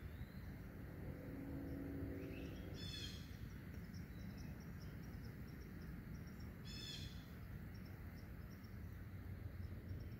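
Quiet woodland ambience: a bird calls twice, each a short burst of quick high notes, over a steady low rumble, with faint high chirps repeating evenly in the background.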